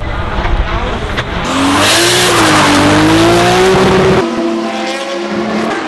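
Lola F3000 race car's Zytek engine under hard acceleration, its pitch wavering up and down through the gears, loudest about two to four seconds in. Just after four seconds the sound drops abruptly and carries on more quietly.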